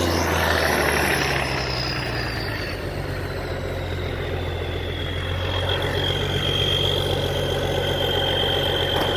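Heavy diesel truck engine idling steadily, with a high whine that slowly drops in pitch.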